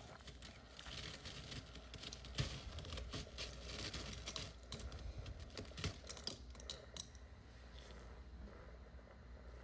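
Freezer frost crunching: a dense run of crisp crackles and clicks that thins out about seven seconds in.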